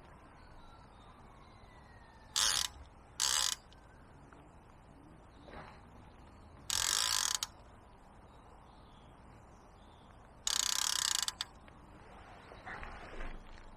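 A centrepin reel's ratchet check clicking in four short runs as line is drawn off the spool, the last two lasting most of a second each.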